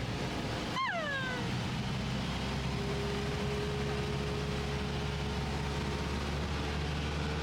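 Cessna light aircraft's piston engine running steadily, heard from the cabin. About a second in, a brief high squeal falls in pitch.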